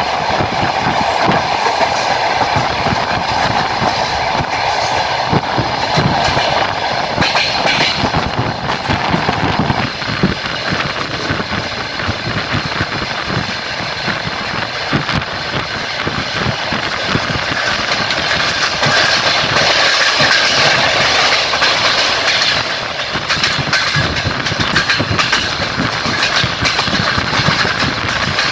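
Passenger train carriage running along the line, its wheels clattering over rail joints in a continuous clickety-clack over a steady rumble.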